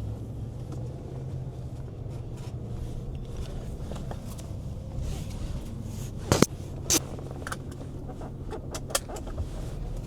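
Steady low rumble of road traffic, with two loud sharp knocks about six and seven seconds in, followed by a few lighter clicks.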